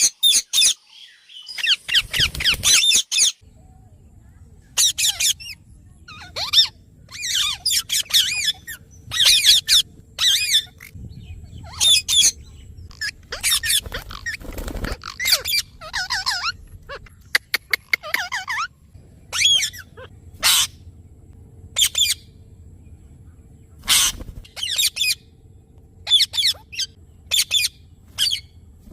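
Green parrot squawking over and over in short, harsh calls, each under a second, about one a second, with a quick run of sharp clicks near the middle.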